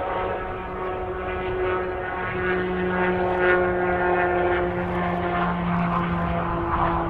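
Aircraft engines running with a steady droning hum made of several held pitches.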